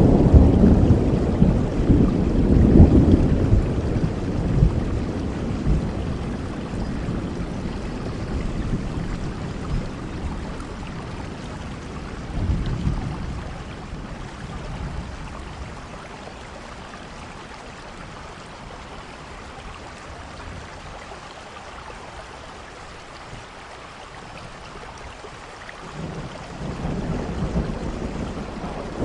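Steady rain with rolling thunder. A deep rumble fades away over the first several seconds, a shorter rumble comes about twelve seconds in, and a new one builds near the end, with only the rain's even hiss in between.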